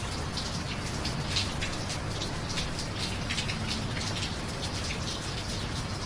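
Steady rain: a constant hiss with many separate drops splashing close by, scattered irregularly throughout.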